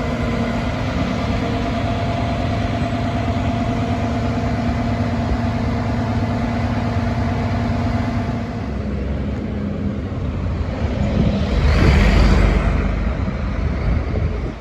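Crane truck's diesel engine running steadily with a held whine. About twelve seconds in comes a louder, rushing rumble that swells and fades.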